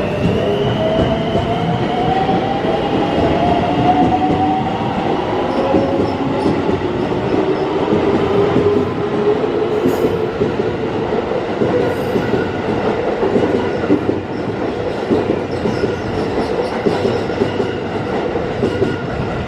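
Electric train accelerating along the track: the traction motor whine rises in pitch over the first several seconds, over the steady rumble of wheels on the rails.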